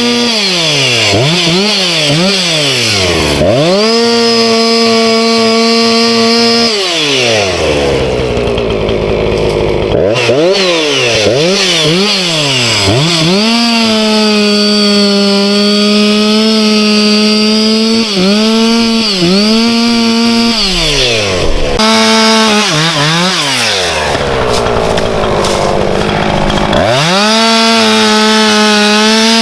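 Husqvarna two-stroke chainsaw cutting firewood. The engine is revved up and down several times and held at full throttle through long cuts, and it drops back to idle twice, about eight and about twenty-four seconds in.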